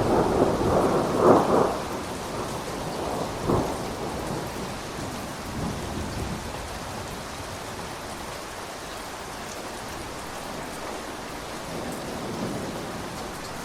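Steady rain with a thunderclap: a loud rumble in the first two seconds, a sharper crack about three and a half seconds in, then the thunder rolling away, leaving the rain falling evenly.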